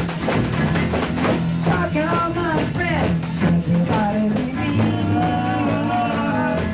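A raw 1960s garage-rock band playing a rock and roll number.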